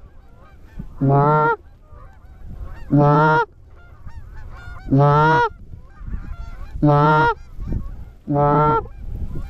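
Goose call blown in long, low honks, one about every two seconds, each lasting about half a second. Between them a flock of geese calls faintly in the distance.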